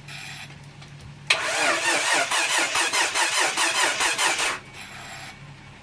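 Mitsubishi FTO's 6A12 V6 being cranked over by the starter motor in a first start attempt after the engine swap. A fast, even rhythmic churning comes in suddenly about a second in, runs about three seconds and stops abruptly.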